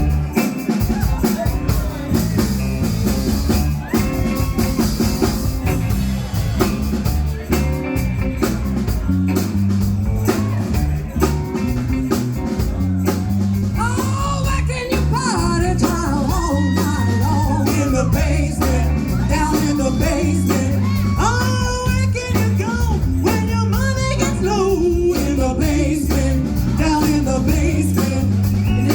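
Live rock-and-roll band playing, a stepping bass line under guitar and drums, with a woman's singing voice coming in about halfway.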